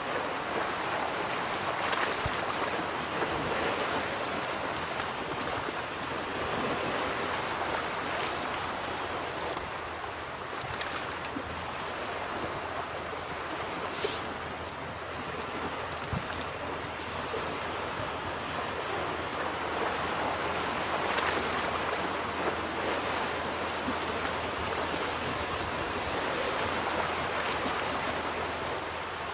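Ocean waves breaking and washing onto a beach, a steady surf wash that swells and eases, with one brief sharp crack about halfway through.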